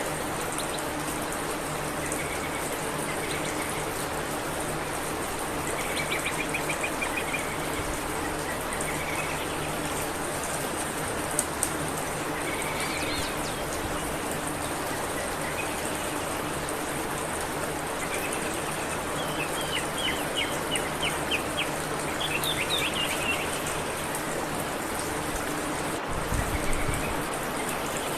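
Steady rush of running water, like a stream, with birds chirping in short trills now and then.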